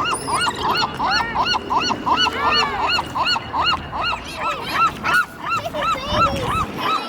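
A flock of birds calling together as they come in to be fed: a fast run of short arched honking calls, about four a second, with several birds overlapping.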